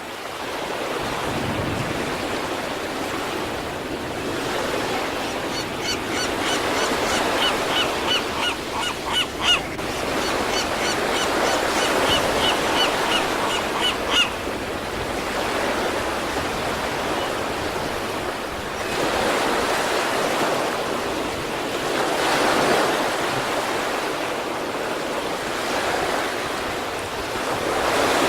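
Sea waves breaking and washing on the shore in a steady rush that swells and falls every few seconds. Partway through, two runs of rapid high-pitched calls, each a few seconds long, sound over the surf.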